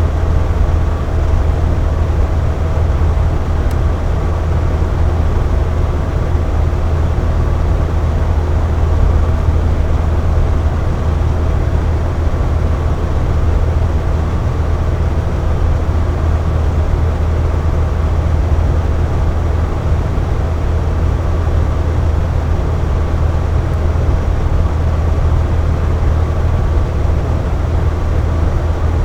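Air conditioner running steadily: a constant low hum with a faint steady whine over an even rush of airflow.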